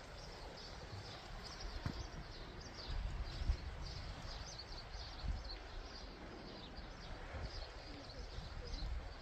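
Small birds chirping in short, repeated notes, over a low wind rumble on the microphone and a few soft footsteps.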